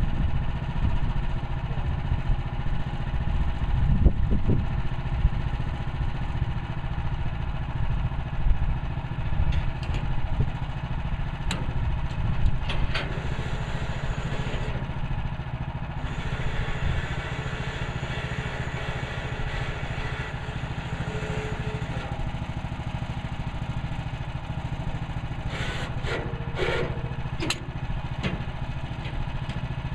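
Portable band sawmill's gasoline engine running steadily, with a few sharp clicks or knocks about ten seconds in and again near the end.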